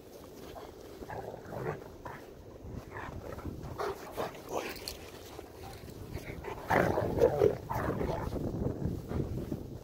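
A dog close to the microphone, licking and snuffling in a string of short sounds that get louder about seven seconds in.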